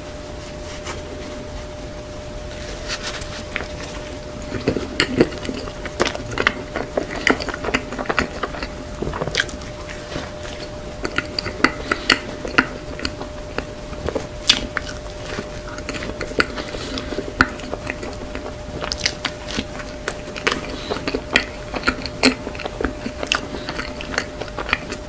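Close-up chewing of soft whipped-cream-filled bread: wet, sticky mouth sounds and irregular small clicks of the lips and tongue, over a faint steady hum.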